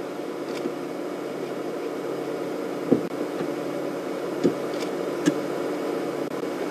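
A steady mechanical hum with hiss, holding a few fixed low tones, broken by three short knocks in the second half.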